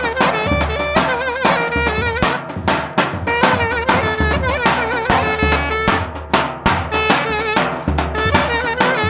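Clarinet playing a melody with vibrato over a steady drum beat and bass.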